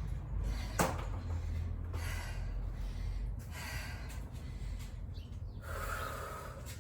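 A person breathing hard between jump-rope sets, with about three long breaths and a single tap about a second in.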